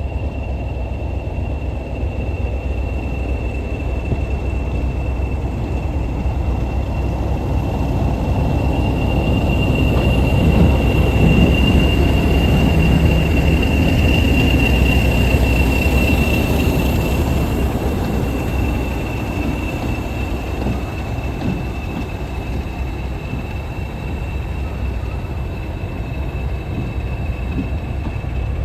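English Electric Class 40 diesel locomotive running light engine, its diesel engine rumbling under the high, steady turbocharger whistle that earned the class its 'Whistler' nickname. It grows louder towards the middle, then eases back.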